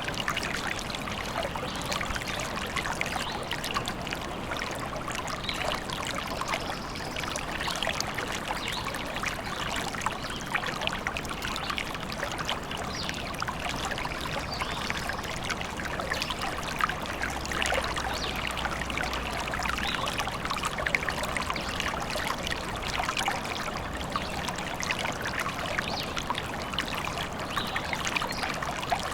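Forest stream running: a steady, dense trickling and splashing of water that does not let up.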